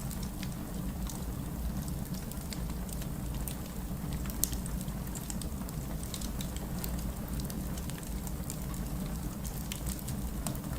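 Rain mixed with a crackling fireplace: a steady low rumble and hiss of rain, with frequent small sharp crackles and pops from the fire, one a little louder about four seconds in.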